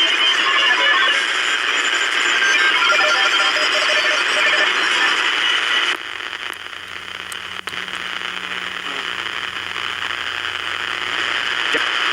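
Shortwave radio receiver audio: hiss and static crowded with short, choppy tone fragments at many pitches. About six seconds in it changes abruptly to quieter hiss with a low, steady hum underneath, as the receiver moves to a different signal or frequency.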